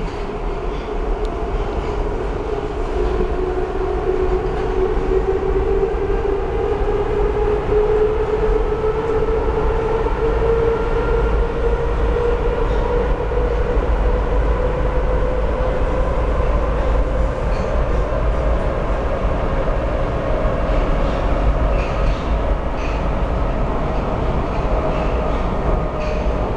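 Budapest M2 metro train running between stations: steady rumble of wheels on rail with a motor whine that slowly rises in pitch as the train picks up speed.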